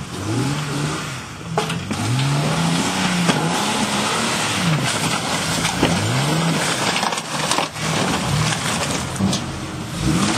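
Jeep Wrangler engine revving up and dropping back again and again, about once a second, as the Jeep crawls over mud and rocks on an off-road trail.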